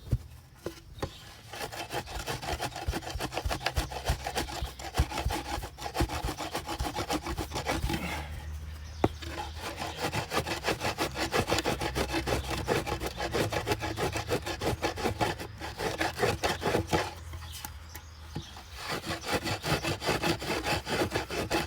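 Steady back-and-forth hand-tool strokes, like sawing or scraping, worked on the truck's leaf-spring hardware, with two short pauses, about 8 s and 17 s in.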